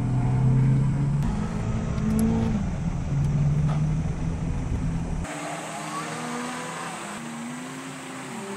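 Car engine running loudly, its revs rising and falling. About five seconds in the sound changes abruptly to a fainter engine whose pitch glides up and down.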